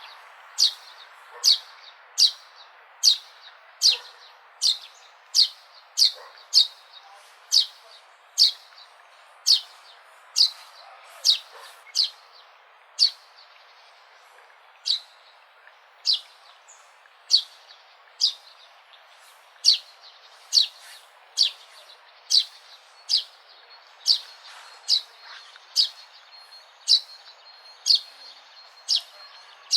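A sparrow chirping over and over, a sharp, short, falling chirp a little more often than once a second, over a faint steady background hiss.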